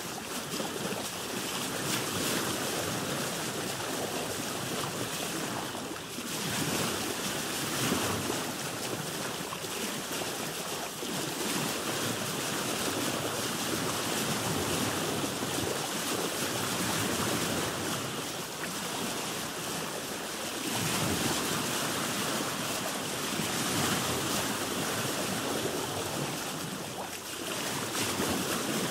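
Sea water washing around a boat: a continuous rushing wash of waves that swells and eases every few seconds.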